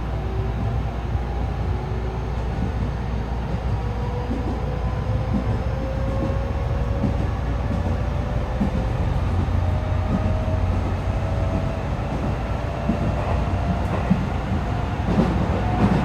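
JR West 207 series electric train running, its inverter and traction motor whine rising slowly in pitch as the train gathers speed, over a steady rumble of wheels on rail. The whine is made of several tones heard together, because the two inverters' acceleration sounds are out of step with each other, the car's known unusual inverter noise. A few wheel-on-rail knocks come near the end.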